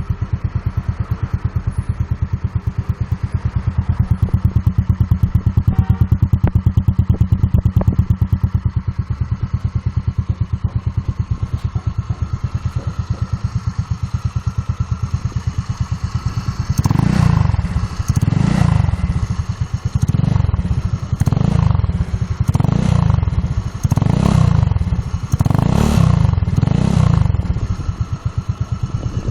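Mondial 150 RE motorcycle's 150 cc engine through an aftermarket chrome, fibre-packed performance exhaust: idling with a steady, even beat, then blipped about eight times in quick succession, roughly one short rev every second and a half, before settling back near the end.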